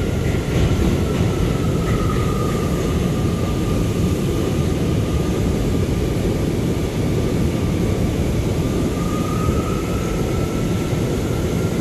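An R179 subway train running at speed through the tunnel, heard from inside the car: a steady rumble and rush of wheels on rail. Over it sits a thin high whine that dips slightly in pitch a couple of seconds in and rises back near the end.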